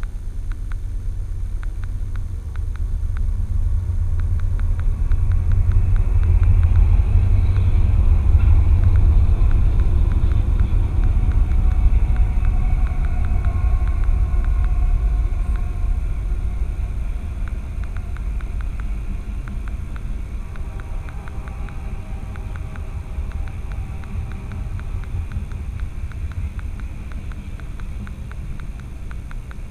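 Low vehicle rumble that grows louder over the first few seconds, peaks, then slowly fades, with a dense run of faint rapid clicks through the loud part.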